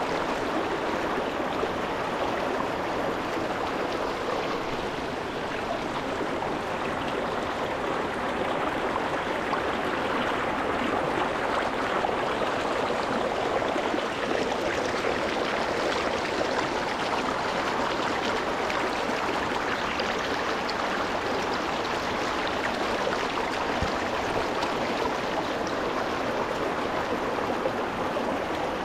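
Shallow rocky mountain stream flowing over stones, a steady rush of water with a fine bubbling and splashing texture, heard close to the water surface.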